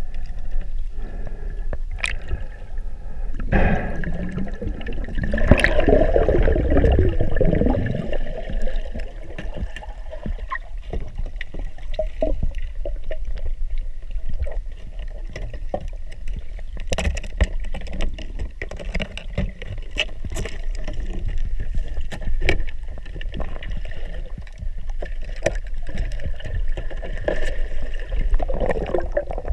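Underwater sound around a diver: a steady muffled water rumble, a burst of bubbles about four to eight seconds in, and scattered sharp clicks and knocks.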